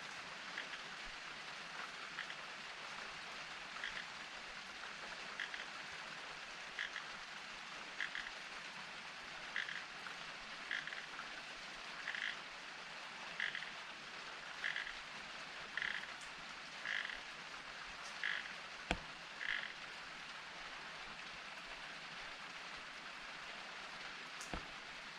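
Steady rain falling. Over it, a short animal call repeats about every second and a quarter, growing louder, and stops about three-quarters of the way through. There are a couple of sharp drip-like clicks near the end.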